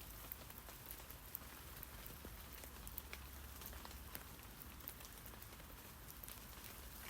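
Rain falling on tree leaves: many scattered individual drop taps over a soft steady hiss, with a faint low rumble underneath.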